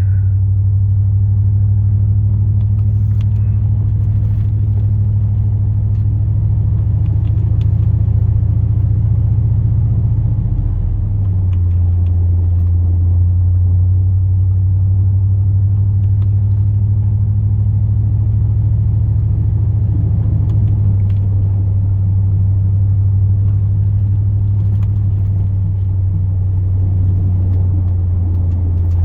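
Plow truck's 8.1-litre big-block V8 running steadily as a deep drone inside the cab. The low note shifts slightly twice, about a third of the way in and again about two-thirds in.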